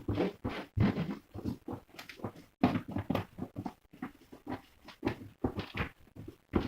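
A domestic animal vocalising in short, irregular bursts, several a second.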